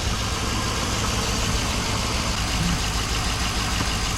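2006 GMC Sierra's 5.3-litre LS V8 idling steadily.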